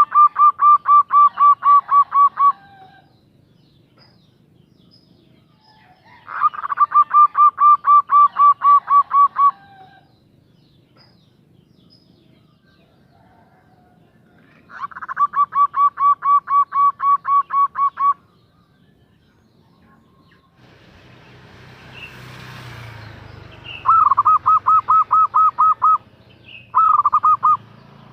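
Female zebra dove (perkutut) calling: bouts of rapid, stuttering coos, about five notes a second, each bout lasting two to three seconds and repeated several times with pauses. The last two bouts are shorter and close together. A low background rumble rises about two-thirds of the way through.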